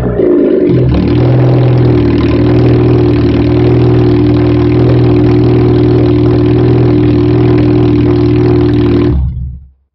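Fiat Punto II 1.2's four-cylinder petrol engine running with its exhaust silencer missing, so the exhaust is very loud. The revs drop back from a blip in the first second, then it idles steadily and stops about nine seconds in.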